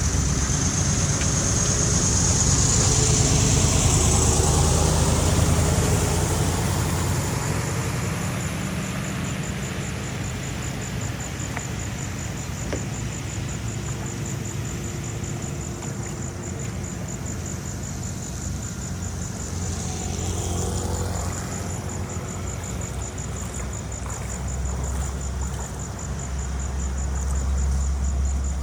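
An engine running with a steady low rumble, loudest in the first several seconds and rising again near the end, with a thin high-pitched pulsing whine above it throughout.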